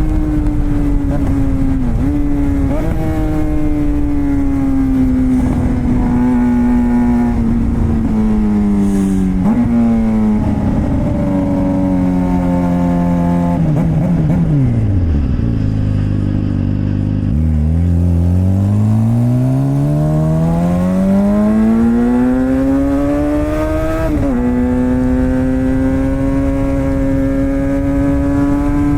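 Suzuki GSX-R600 K7 inline-four engine through a straight-piped M4 exhaust with no catalytic converter, heard from the rider's seat. It slows with the revs falling and jumping back up at several downshifts, drops almost to idle about halfway, then pulls hard with the revs climbing smoothly, shifts up once about three-quarters in, and holds a steady cruise.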